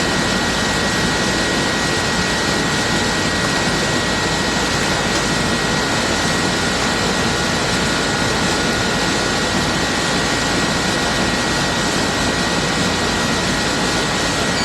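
Split-system air conditioner's outdoor unit running steadily under charge: the condenser fan's rush of air with two faint steady high tones over it.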